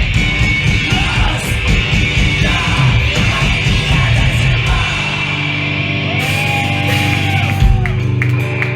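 Live punk band playing loud with full drums, distorted guitars and vocals. About five seconds in, the drums drop out and held guitar chords ring on, with a brief gliding tone and a single thump near the end.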